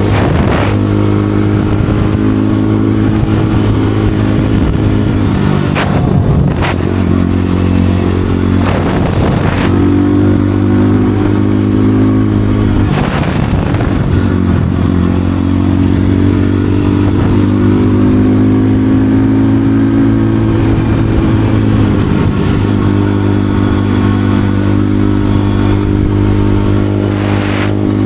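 Motorcycle engine running as the bike is ridden, its pitch shifting a few times with the throttle.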